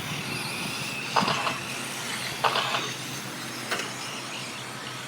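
Electric radio-controlled 4wd short course trucks racing, their motors making a steady high whine, with three short louder bursts of noise about a second apart as trucks pass or scrabble close by.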